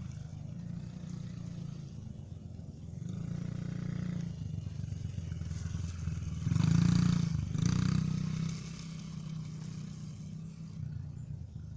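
Mini dirt bike's small engine running as it is ridden, louder for about two seconds a little past the middle.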